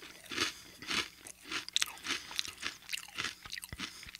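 Close-miked chewing of a crunchy cracker topped with jam: a steady run of crisp crunches, about two to three a second.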